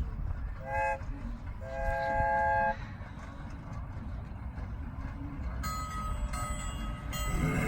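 Park ride train's whistle sounding a chord of several notes, one short blast and then a longer one, over the steady low rumble of the train running.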